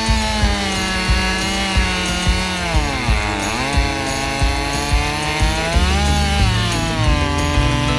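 Husqvarna 550XP two-stroke chainsaw running at high revs, its pitch sagging about three seconds in and again near the end as it bogs under load in a cut. Background music with a steady beat plays underneath.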